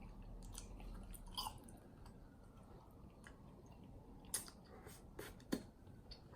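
Close-up mouth sounds of someone eating chicken wings: chewing with a few scattered wet smacks and clicks, the loudest about four and a half and five and a half seconds in.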